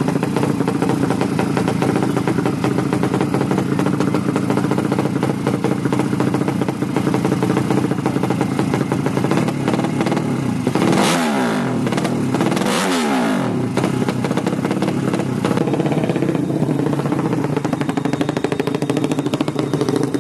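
200cc motorcycle engine running steadily, with two short throttle blips about halfway through.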